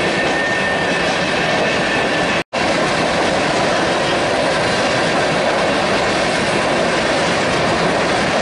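Freight train of covered hopper cars rolling past: a steady, loud rumble and clatter of steel wheels on the rails. The sound drops out briefly about two and a half seconds in.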